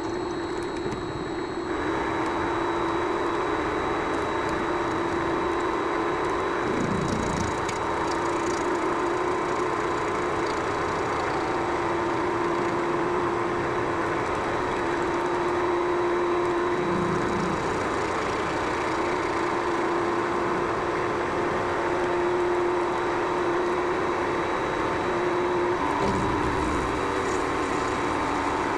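Vevor MX400 mini lathe running with a steady motor whine while facing off metal stock. The tone steps up slightly about 26 seconds in.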